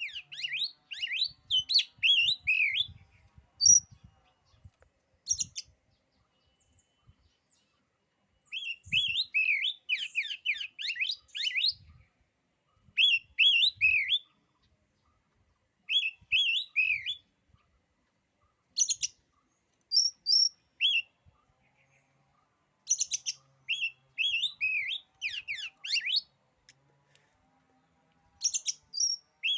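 Oriental magpie-robin (kacer) singing: bursts of rapid, varied whistled notes, each phrase a second or a few seconds long, broken by short pauses.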